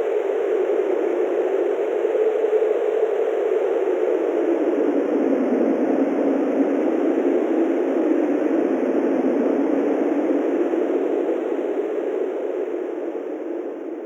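Wind sound effect: a steady rushing noise whose stronger, hollow band slowly slides down in pitch, then begins to fade near the end.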